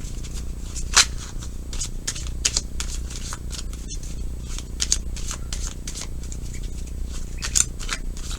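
Tarot deck being shuffled by hand: a string of quick, irregular card flicks and slides, with one sharper snap about a second in and another near the end.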